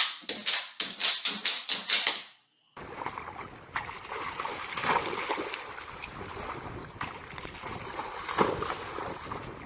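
A quick run of sharp knocks or clicks, about three a second, that stops abruptly after two seconds; then, after a short gap, a steady rushing, splashing noise of moving water with a few louder swells.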